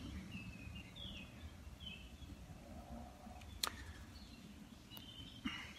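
Faint bird chirps in the first couple of seconds over quiet outdoor background noise, with a sharp click about three and a half seconds in.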